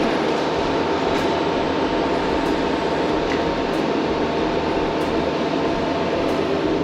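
Steady mechanical hum and whir with a few held tones running through, like machinery running in a shop.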